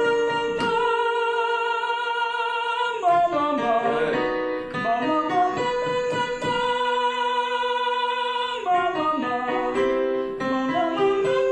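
A male student singing a vocal exercise, holding long sustained notes of about two seconds each with short moving passages between them, over an instrumental accompaniment. The tone is full and resonant, with a tiny bit of clutter.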